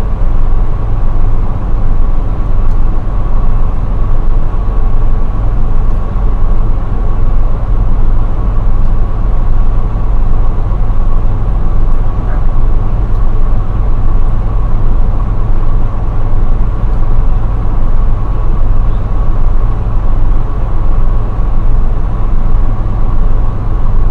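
Steady low rumble of a semi truck heard from inside the cab, with a thin steady whine above it.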